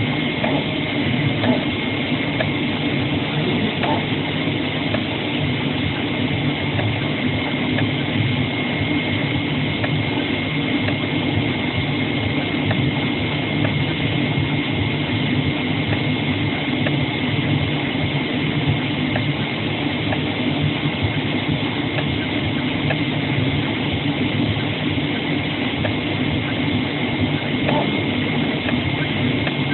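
CNC flatbed cutting machine running: a steady mechanical hum with a constant high whine and faint scattered ticks.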